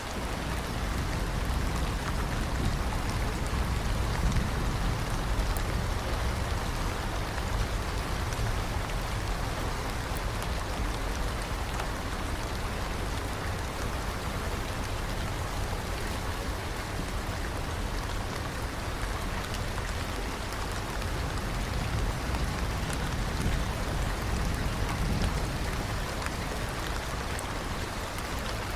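Steady rain falling, an even dense hiss with a strong low rumble beneath it and a few faint drop ticks.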